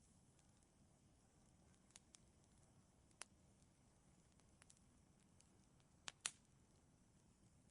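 Fireplace fire crackling: sparse sharp pops and snaps over a faint low hiss, the loudest two pops coming close together about six seconds in.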